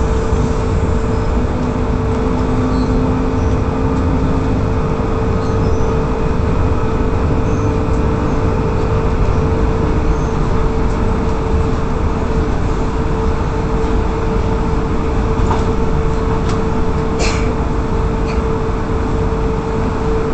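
Inside a moving Brisbane electric suburban train: the steady rumble of wheels on rails with a constant hum over it, and a couple of short clicks in the second half.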